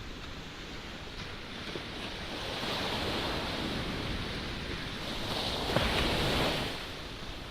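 Surf breaking on the beach: a rushing wash of waves that swells about two seconds in and again, louder, near six seconds before easing off, with strong wind buffeting the microphone throughout.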